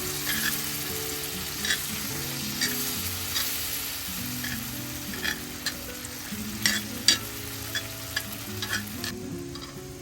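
Food sizzling in a hot frying pan, with sharp scrapes and clicks from a utensil stirring it. The sizzle drops away about nine seconds in, as the pan comes off the heat.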